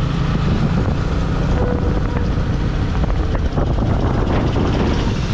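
Motorcycle engine running at steady speed under way, mixed with wind rushing over the rider's microphone.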